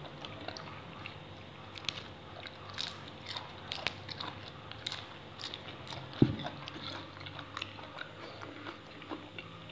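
Close-up chewing of a mouthful of raw shrimp and fresh leafy greens, with many small crisp crunches. A single loud knock comes about six seconds in.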